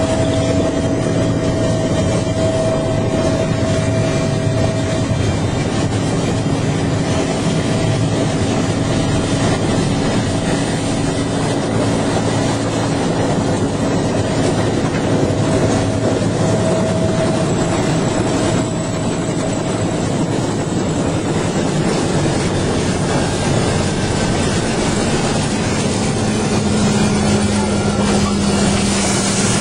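Bell UH-1H Huey helicopter running steadily, its turbine whine and rotor noise held at a constant level; a slightly higher tone comes in near the end.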